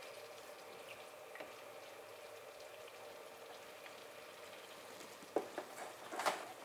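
Butter, sugar and treacle melting in a pot on the stove, sizzling faintly, with a few sharp knocks about five and six seconds in.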